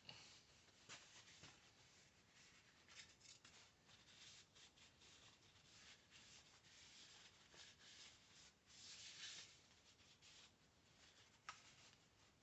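Near silence with faint, intermittent rubbing and scratching sounds of a small part being handled, a slightly longer rub about nine seconds in and a sharp click near the end.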